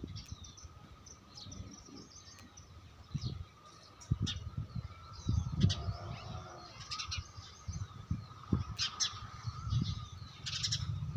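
Small birds chirping and twittering in short bursts, over a faint steady high tone, with scattered low thumps.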